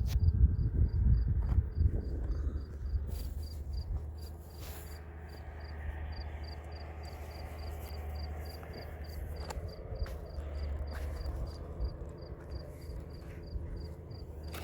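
Cricket-like chirping: short high chirps at one pitch, about three a second, over a low rumble with a few knocks in the first two seconds.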